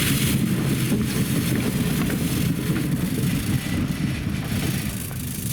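Sapporo streetcar snow-sweeper (sasara densha) running along the tracks, a loud steady rumble as its rotating bamboo brooms sweep snow off the rails. The rumble eases slightly near the end.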